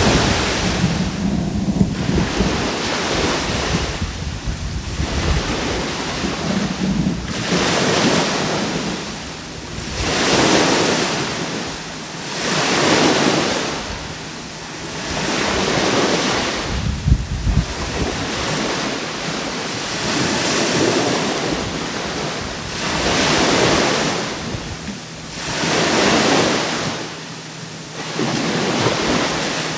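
Sea waves breaking on the shore and washing back, one surge about every three seconds. Wind buffets the microphone with a low rumble near the start and again about halfway through.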